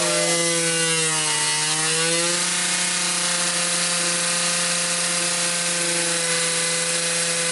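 LEGO Technic piston engine spun at high speed by a 24 V drill motor: a steady whine over a loud hiss. The pitch sags about a second in, as if the motor is briefly bogged down, and recovers about two and a half seconds in.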